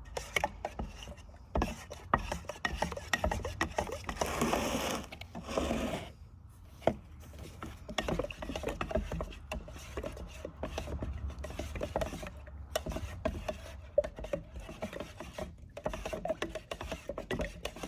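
Rubbing and scraping with scattered small clicks and knocks of things being handled, and a louder rushing noise about four to six seconds in.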